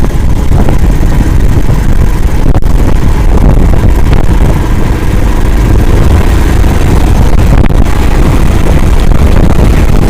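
Engine of an Akula all-terrain swamp vehicle running loud and steady, a dense low rumble with no breaks.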